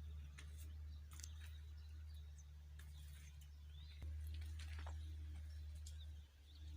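Quiet outdoor ambience: a steady low rumble with scattered short bird chirps and a few light clicks.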